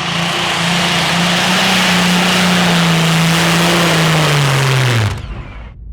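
A competition pulling tractor's engine running loud at full throttle, holding a steady pitch, then falling in pitch and cutting off about five seconds in, leaving a low rumble.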